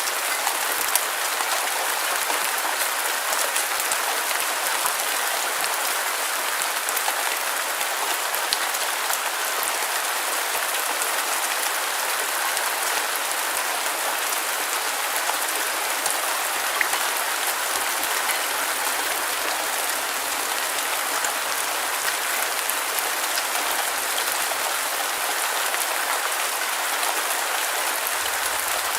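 Steady rain falling on a surface, an even hiss of many fine drops that does not change.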